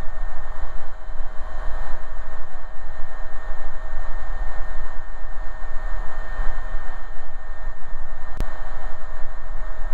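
Single-engine AgustaWestland AW119 Koala helicopter in cruise, heard from the cockpit: steady engine and rotor noise with a steady whine, and one brief click about eight seconds in.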